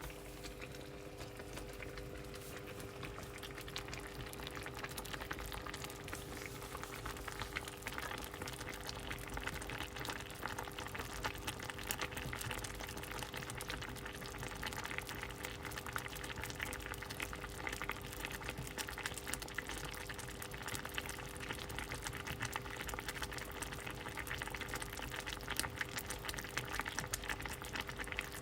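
A pot of soup boiling: dense, steady bubbling and popping that thickens over the first several seconds, with a steady low hum underneath.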